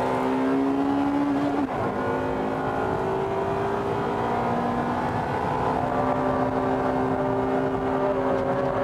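Honda Civic Type R EK9's 1.6-litre VTEC inline-four at high revs, heard inside the cabin. Its pitch dips briefly about one and a half seconds in, then climbs slowly as the car is held through a long corner.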